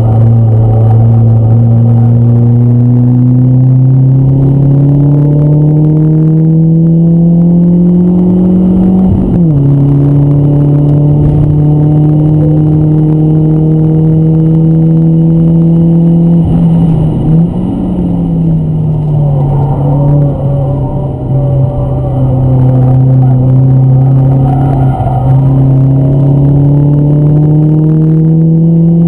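BMW 318ti's four-cylinder engine heard from inside the cabin, pulling hard on a track lap: the pitch climbs steadily, drops sharply at an upshift about a third of the way in, falls back again a little past halfway as the driver eases off, then climbs once more near the end.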